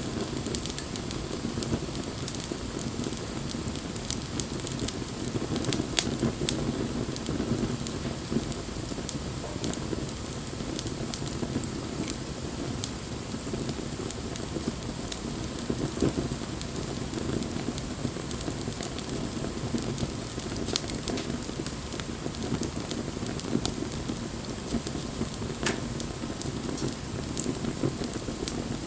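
Wood bonfire burning: a steady low rush of flames with frequent sharp crackles and pops from the burning wood.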